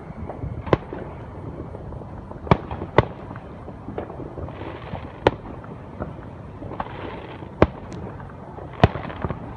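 Fireworks display going off: a string of sharp bangs at uneven intervals, about one every second or two, over a steady background of noise.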